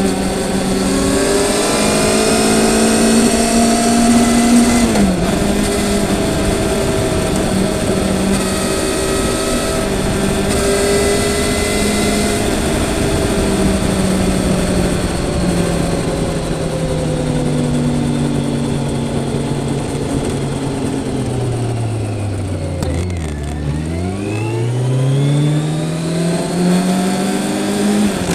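Motorcycle engine heard on board while riding. The engine note holds steady, drops briefly at a gear change about five seconds in, sinks slowly as the bike slows, then climbs again through the last few seconds as it accelerates.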